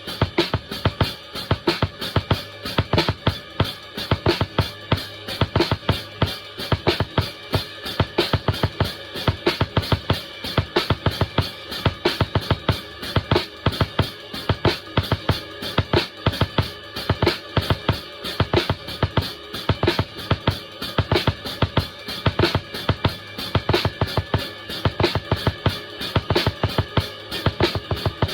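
Drum kit played in a steady, fast groove, with bass drum and snare hits over a continuous wash of cymbals.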